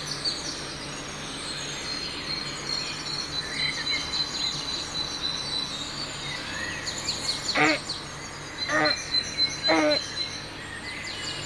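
Outdoor ambience with birds chirping over a steady low hum, with a few louder chirps about two thirds of the way in.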